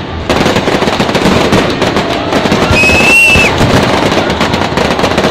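Aerial fireworks going off in a dense barrage: continuous crackling with rapid bangs packed close together. A brief high whistle sounds about three seconds in.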